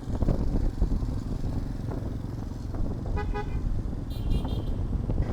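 Road traffic rumble with wind on the microphone. A vehicle horn toots briefly about three seconds in, followed by a shorter, higher-pitched pulsing beep.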